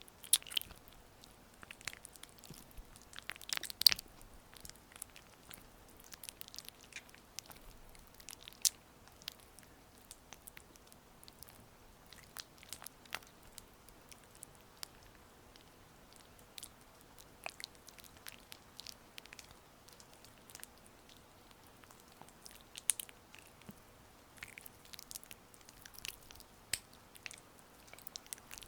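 Oiled hands massaging close to the microphone: irregular wet, sticky clicks and squishes, louder in a few clusters.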